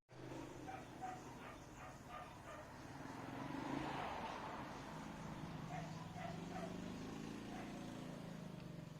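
A dog yapping in short repeated yips, over a low steady hum.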